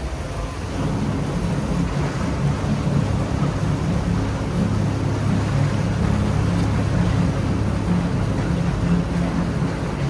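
A train running at a station platform: a steady low machine drone that grows louder about a second in and holds.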